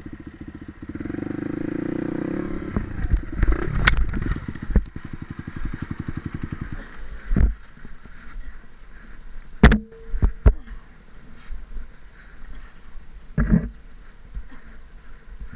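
Small dirt bike engine running with a rapid, even firing pulse, revving up briefly near the start, then dropping away after about seven seconds. A few sharp thumps follow later.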